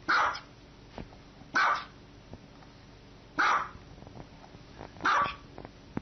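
A dog barking four times, single short barks about one every one and a half to two seconds.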